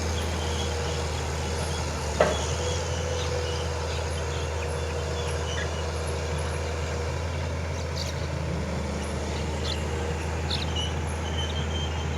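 Scania 144L heavy truck's V8 diesel idling steadily with a low hum. A single sharp knock comes about two seconds in.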